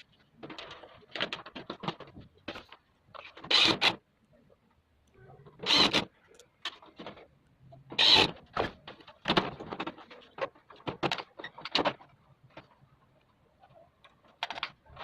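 Parts of a split air conditioner's indoor unit being handled and fitted: irregular clicks, knocks and rattles of plastic and metal. The loudest knocks come about four, six and eight seconds in.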